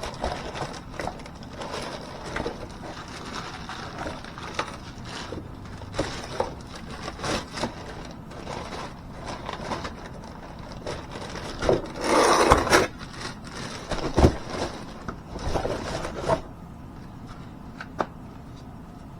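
Irregular clanks, knocks and scrapes of tools and metal parts being handled during work on a car's front axle and wheel bearing, with a louder rasping stretch about twelve seconds in. It goes quieter for the last couple of seconds.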